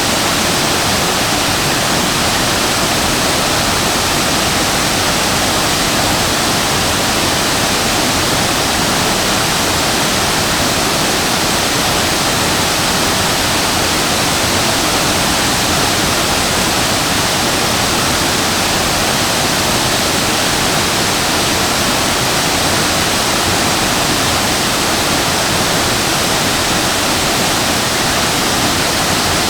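Shasui Falls, a waterfall, rushing steadily: a dense, even roar of falling water.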